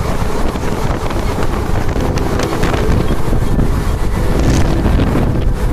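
Wind buffeting the microphone over the steady rumble of a moving passenger train, heard from an open coach door.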